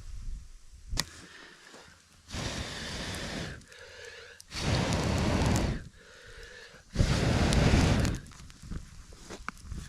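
Three long, rushing breaths blown into a campfire to fan the embers, each louder than the last, after a single sharp crackle about a second in.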